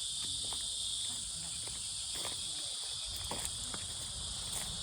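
A steady, high-pitched chorus of insects buzzing, with scattered light footsteps.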